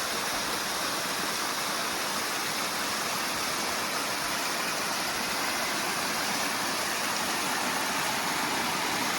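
Waterfall rushing over rocks, a steady even noise that does not change.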